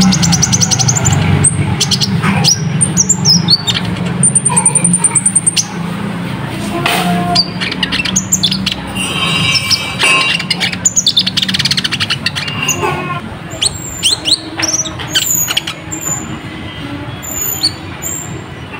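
Brown-throated sunbird (kolibri ninja, 'konin') singing a dense, rapid run of high chirps, quick down-slurred notes and short trills. A steady low hum sits under the first two-thirds and fades out.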